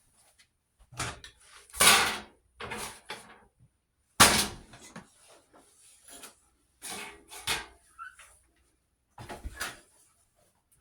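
Kitchen tidying: a string of separate knocks, bumps and rustles as things are handled and put away, with the sharpest, loudest bang about four seconds in.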